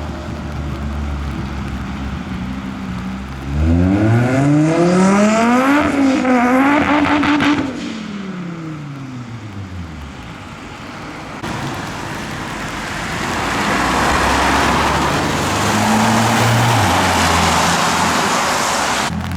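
A car engine idling, then revving hard as the car pulls away about three seconds in, its pitch climbing, holding, then falling and fading as it drives past. Later another car goes by with a swelling rush of engine and tyre noise.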